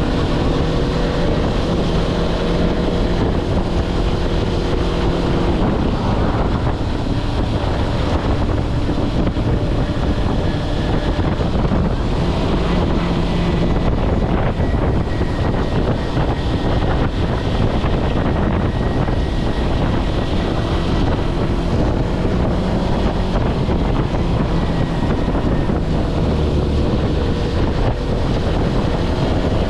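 Kawasaki Versys-X 250's parallel-twin engine running under way, with wind rushing over the microphone. The engine note stands out clearly at the start and again near the end, and is mostly covered by the wind in between.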